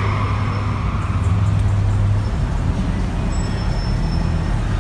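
Car engines running, a steady low drone.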